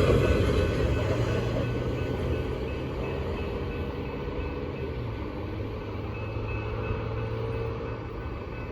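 Union Pacific intermodal freight train rolling past and moving away, its rumble fading steadily.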